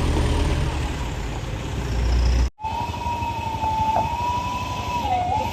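Heavy vehicle engine rumbling, breaking off abruptly about halfway through; then a long steady high-pitched horn-like tone, held, with a brief dip in pitch near the end, over continuing engine rumble.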